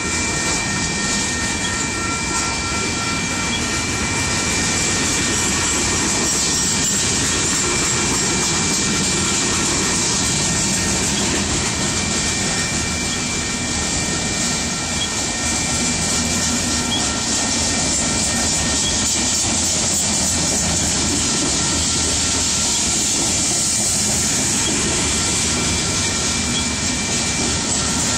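Freight train of covered hopper cars rolling past close by: a steady rumble and rush of steel wheels on rails. A steady high whine runs over it and stops near the end.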